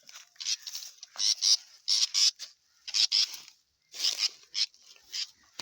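A bird giving harsh, raspy squawks, short calls often in pairs, repeated about once a second.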